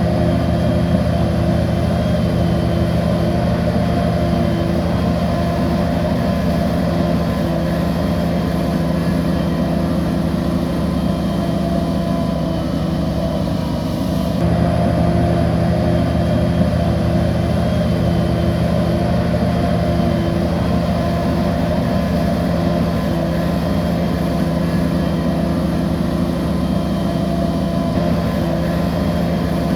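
Heavy diesel engine of a crawler bulldozer running steadily under load, with an abrupt short dip and change in tone about halfway through.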